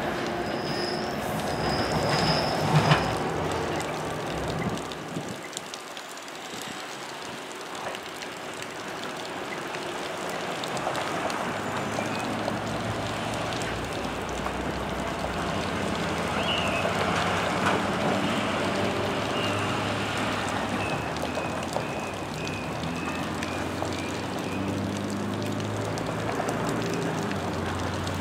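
NJ Transit electric commuter train pulling away from the station. Its sound fades over the first few seconds, with a brief high wheel squeal. Steady road traffic noise follows, with vehicles at the grade crossing.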